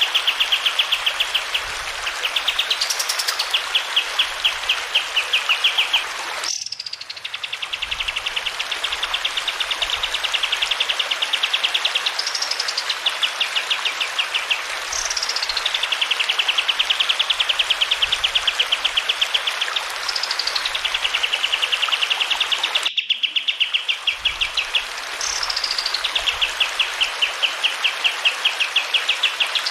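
Kapas tembak bird song: long, rapid, even trills, each opened by a falling whistled note, repeated over and over, over the steady rush of running water. The sound drops out briefly twice, about 6 s and 23 s in.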